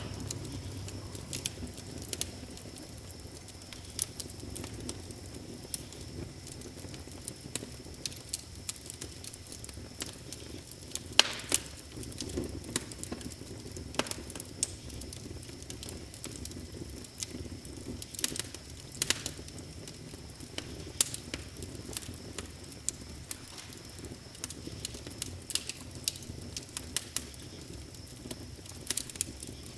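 Wood fire crackling: irregular sharp pops and snaps over a low, soft rumble of burning, with a sharper cluster of pops about eleven seconds in. A faint steady high tone sits behind the fire.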